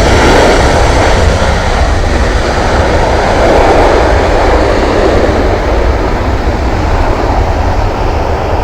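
Jet airliner's engines passing low on landing approach: a loud, steady jet noise that swells twice and slowly fades toward the end.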